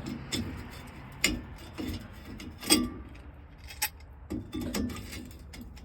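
Irregular metallic clinks and taps, about six of them, some ringing briefly, as a new exhaust tip and its clamp hardware are handled and fitted against the old tailpipe.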